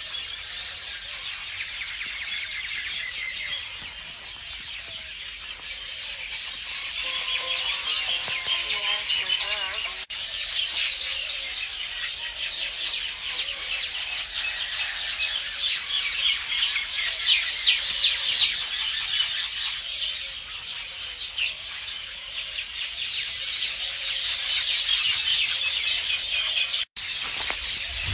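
Many small birds chirping and twittering together in a dense, continuous chorus, with a brief break near the end.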